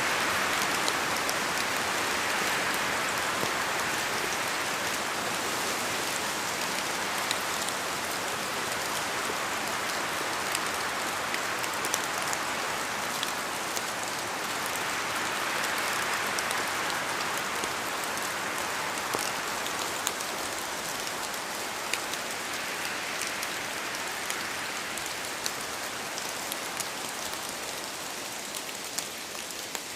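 Steady rain falling, with many scattered sharp drip ticks over a continuous hiss that swells and eases slowly every several seconds.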